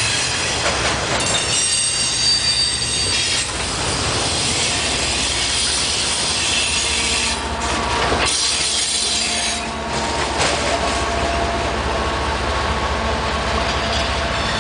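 Freight train cars rolling slowly past, with steel wheels squealing high-pitched in the first few seconds over a steady rumble of the wheels on the rails.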